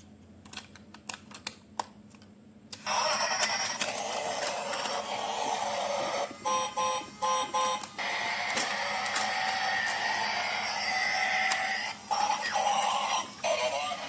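A few sharp clicks from handling, then about three seconds in a loud run of electronic beeps and tones starts, with a short pitched beep repeated four times in quick succession near the middle.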